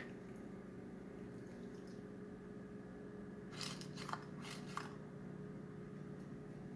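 Amazon Echo smart speaker giving off a faint steady hum with two constant tones while it is unresponsive. About three and a half seconds in come a few brief scratchy bursts, over within about a second and a half.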